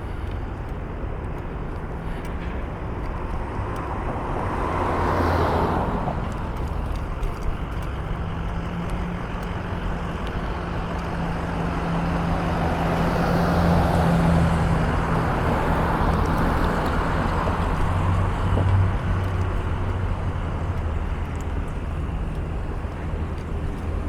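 Road traffic passing: one vehicle swells past about five seconds in, then a longer pass with a low engine hum builds and fades between about eight and eighteen seconds.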